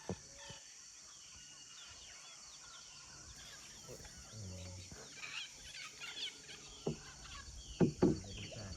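Rainforest dawn chorus: a steady high insect drone under many overlapping bird chirps and calls. Two loud knocks come close together near the end.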